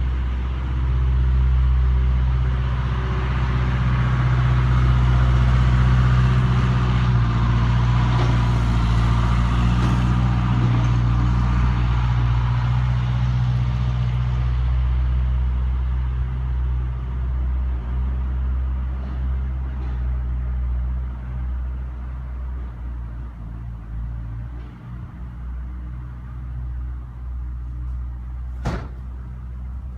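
A steady low hum, with a rushing noise that swells, peaks and fades away over the first half, and one sharp click near the end.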